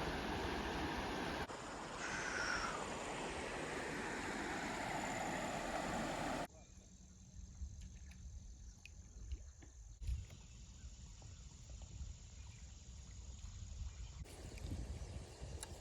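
River outdoor ambience: a steady rushing noise for the first several seconds, then suddenly a much quieter background with faint clicks, and the rushing noise comes back near the end.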